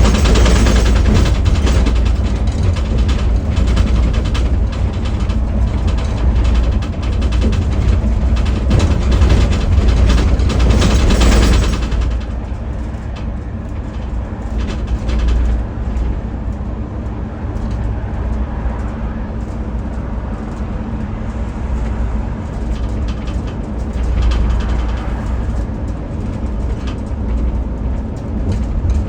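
Motor coach riding along, heard from inside the cabin: a steady low engine and road rumble, with louder hissing road noise for about the first twelve seconds that then eases off.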